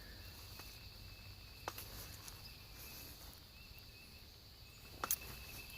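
Quiet woodland outdoor ambience: a faint steady hiss with a thin high tone that comes and goes, broken by a soft click about a second and a half in and a couple more near the end.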